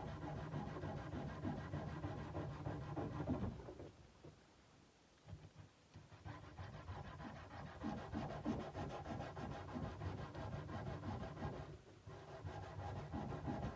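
Sandpaper rubbed back and forth by hand on a kukri's steel blade in quick, even strokes. The sanding stops for about two seconds near the start, then resumes, with a short break near the end.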